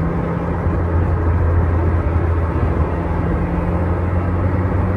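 Renault Sport Spider's mid-mounted 2.0-litre four-cylinder engine running at a steady pitch while driving, mixed with wind and road noise in the open, roofless cockpit.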